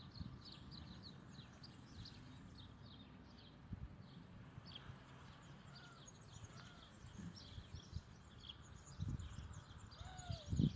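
Birds chirping: many short, quick, high calls over one another, with a few lower slurred calls and occasional low thumps.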